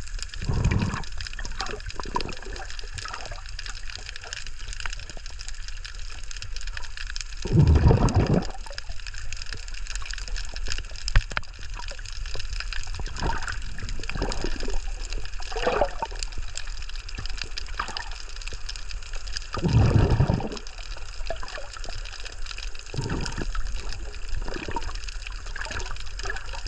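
Underwater recording: bursts of bubbling from a scuba diver's exhaled breath, loudest about half a second in, around 8 seconds and around 20 seconds, over a steady water hiss with faint scattered clicks.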